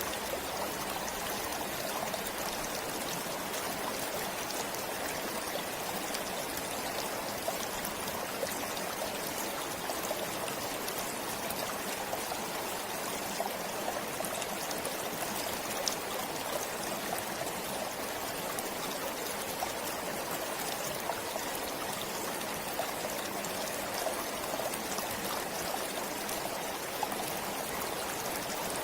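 Forest stream flowing steadily, water trickling and gurgling over stones in an even rush with small splashes.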